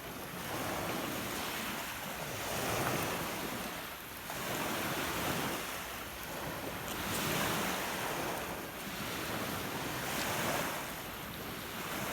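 Rough lake waves breaking on the beach in strong wind, surging every two to three seconds, with wind noise on the microphone.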